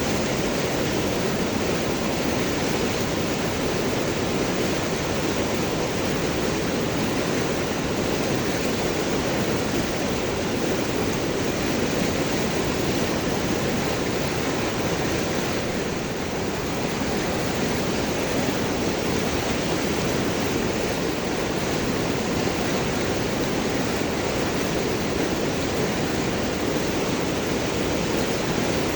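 A river flowing and gurgling over and around large rocks: a steady, full rushing of water.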